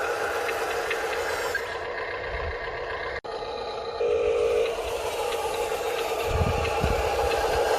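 Radio-controlled construction models at work in gravel: a steady whine of the models' electric motors and gearing, with gravel scraping and rattling, and a few low thumps near the end. The sound breaks off for an instant about three seconds in.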